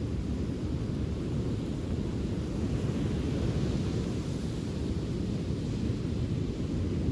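Steady low rumble of wind on the microphone, with a faint wash of surf that swells slightly a few seconds in.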